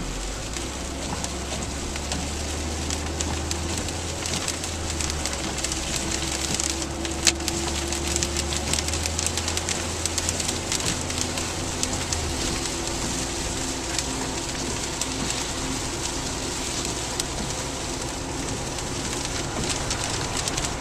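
Rain pattering steadily on a car's roof and windshield over a low rumble from the car, with one sharp tap about seven seconds in.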